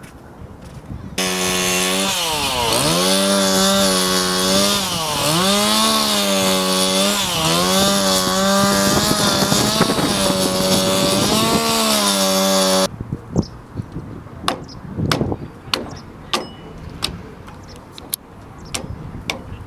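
Two-stroke chainsaw running at high revs and cutting wood, its pitch dipping and recovering several times as the chain bogs down in the cut. It cuts off suddenly about thirteen seconds in, followed by scattered sharp knocks and clicks.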